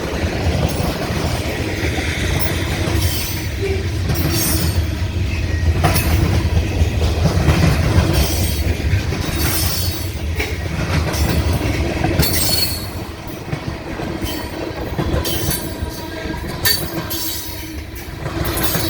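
CSX freight train rolling past: a steady low rumble of wheels on the rails with clicking over rail joints and brief high-pitched wheel squeals now and then. The rumble eases a little past the middle.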